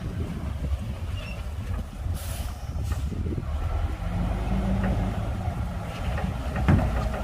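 Komatsu D58P bulldozer's diesel engine running, with a steadier engine note from about four seconds in. A short hiss comes about two seconds in, and a few knocks near the end.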